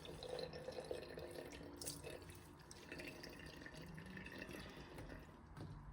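Tap water running and dripping into a sink, with small splashes as a face is wetted by hand.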